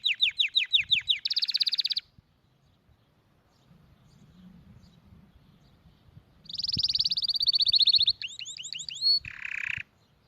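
Canary singing: fast trills of rapidly repeated high notes, a pause of about four seconds, then another rapid trilled phrase that ends in a short harsh buzzy note.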